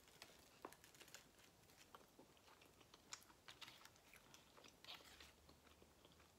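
Faint chewing: soft, wet mouth clicks and smacks at irregular intervals from a person eating a sauce-dipped flour tortilla.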